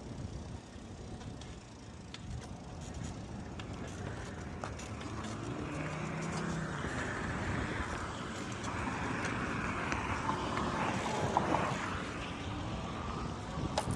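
Steady road and wind rumble while riding an e-bike, with a louder rushing noise building from about five seconds in and easing off near the end.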